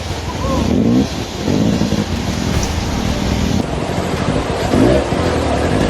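Dirt bike engines running and revving under heavy wind rumble on the microphone.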